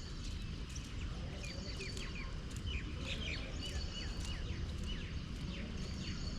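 Birds chirping: many short, quick chirps that fall in pitch, coming several times a second, over a steady low background rumble.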